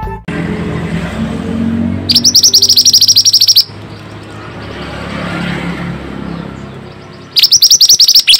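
Mantenan songbird giving a rapid, loud, high trill of fast repeated notes, twice, about a second and a half and then a second long, over a steady low background rumble.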